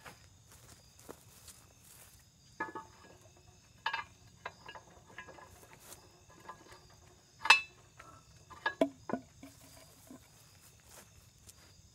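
Scattered metal clanks and knocks, a few of them ringing briefly, as a steel stabilizer foot and its fasteners are handled and fitted on a Kubota BX-22 backhoe. The loudest knock comes about halfway through, followed by a quick cluster of smaller ones.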